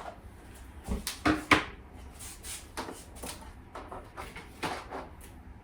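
Irregular light clicks, taps and knocks of things being pulled off a refrigerator door, the sharpest cluster about a second in.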